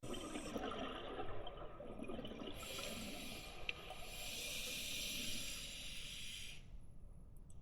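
Scuba diver breathing through a regulator underwater: a burst of exhaled bubbles gurgling, then a steady hiss of about four seconds as air is drawn in, stopping sharply.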